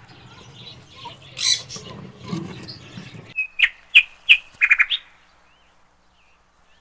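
Alexandrine parakeets calling: a harsh squawk about a second and a half in, then a quick run of short, sharp chirps about three and a half to five seconds in, and a few faint chirps after that.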